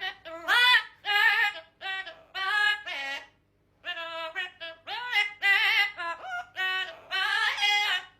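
A parrot singing a wordless tune: a string of short, high-pitched notes with a wavering pitch, broken by a pause about three seconds in.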